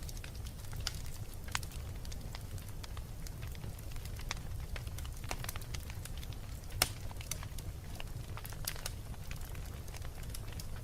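Wood fire crackling in a fireplace: irregular sharp pops and crackles over a low, steady rumble, with one louder pop about seven seconds in.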